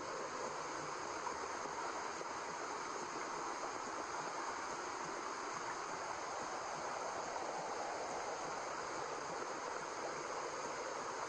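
Steady white noise: an even, unbroken hiss with no beat or rhythm.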